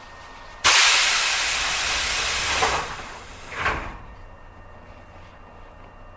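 Compressed air let out of a Tobu 8000 series train with a loud hiss that starts suddenly, holds for about two seconds and fades, followed by a second, shorter hiss; the train is otherwise standing quietly.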